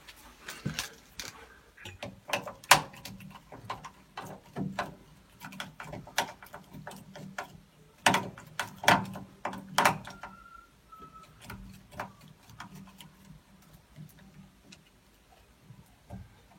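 Irregular clicks, knocks and metallic clatter of hand tools and boiler parts being handled while a combi boiler's diverter valve is taken apart. The strokes are densest in the first ten seconds and thin out toward the end.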